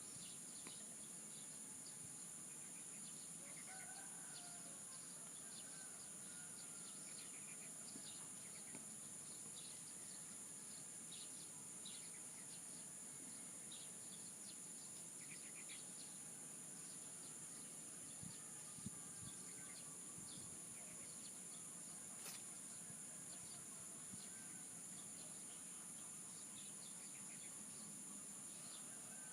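Faint outdoor morning ambience: a rooster crowing now and then, small birds chirping in short scattered calls, and a steady high-pitched insect drone underneath.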